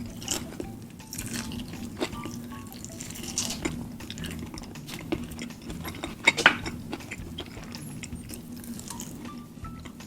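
Close-miked eating: chewing and biting of chicken in a thick sauce, with scattered clicks and the odd clink of a dish, over faint background music.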